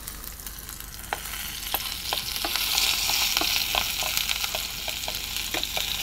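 Chopped onion and garlic sizzling as they sauté in hot oil in a pan, stirred with a spatula that clicks against the pan now and then. The sizzle grows louder about two seconds in.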